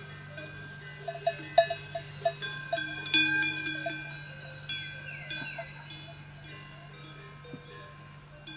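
Livestock bells clinking and clanking irregularly at several different pitches, the strikes loudest in the first half, over a steady low hum.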